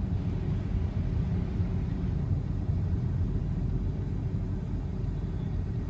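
Automatic rollover car wash machine working over a car, a steady low rumble heard from inside the car's cabin.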